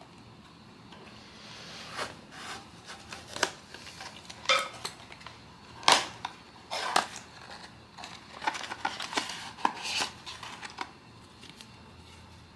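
Blind-box packaging and cards being handled: an irregular run of sharp clicks, taps and crinkly rustles for most of the stretch, the loudest snap about six seconds in.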